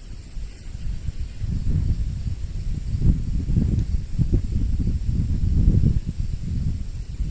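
Wind buffeting the microphone in uneven gusts, a low rumble that swells and falls.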